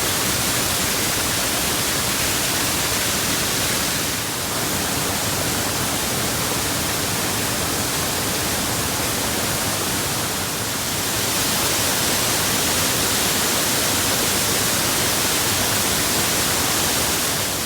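Waterfall running: a steady, even rush of falling water, dipping slightly twice.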